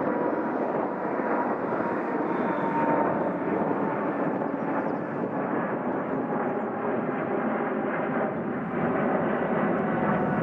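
Jet airliner engines running: a steady rush of engine noise with a faint thin whine that slowly drops in pitch.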